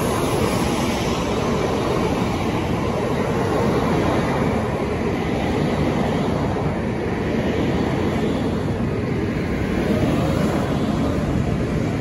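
N700-series Shinkansen trains running on the line: a steady rush of rolling and running noise with no breaks.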